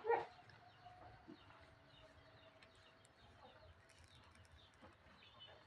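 Birds chirping faintly, with one short, louder call right at the start.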